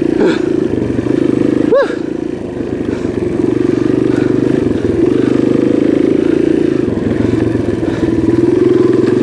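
Kawasaki KLX140G dirt bike's single-cylinder four-stroke engine running steadily, still going after being ridden through deep floodwater rather than hydrolocking.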